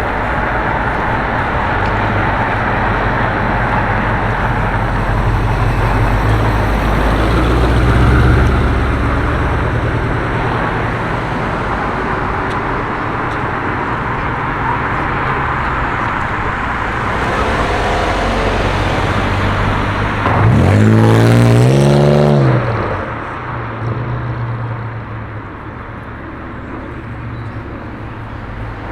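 Car engines running amid road traffic, a steady low rumble. About twenty seconds in, one car's engine revs up with a climbing pitch as it accelerates away, the loudest moment. The sound then drops back to quieter traffic.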